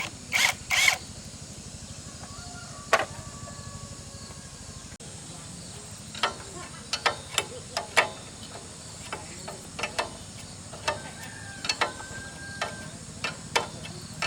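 Irregular sharp clicks and knocks, like hand tools tapping and working on metal tractor parts. They come most thickly in the second half, over a steady low hum.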